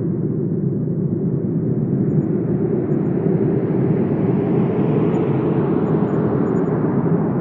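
Wind blowing steadily with a deep rumble, swelling into a brighter, hissing gust around the middle and easing off near the end.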